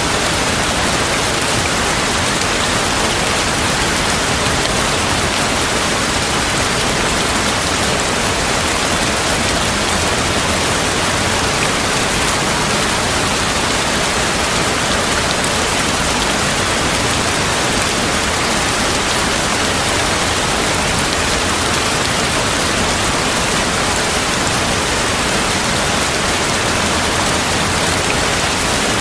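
Steady rain falling, an even hiss of countless drops on surfaces that holds the same level throughout, with no thunder.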